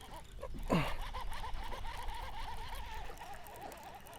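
Fishing reel being cranked to bring in a hooked largemouth bass, its gears giving a wavering whine that rises and falls several times a second. A short sound falling in pitch cuts in about a second in.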